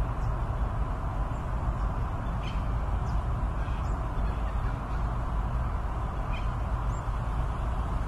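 Steady rumbling noise with a few faint, short, high bird chirps rising in pitch scattered through it.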